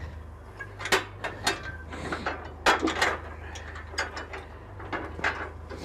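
Irregular metallic clicks and clanks of a mechanism being worked, over a steady low hum.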